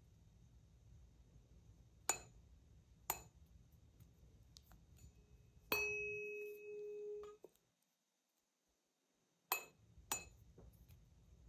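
A tuning fork is struck once and rings with a clear steady tone and a fainter high overtone for about a second and a half, then cuts off suddenly. Light metallic clicks of the forks being handled come before and after.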